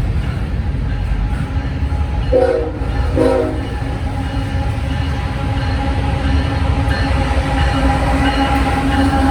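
A train running past on the tracks with a steady low rumble, its locomotive horn giving two short blasts about two seconds in.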